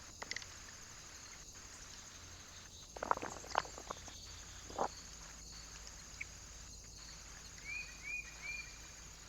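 Birds at a feeder: a burst of sharp taps about three seconds in and another near five seconds, and three short rising chirps near the end.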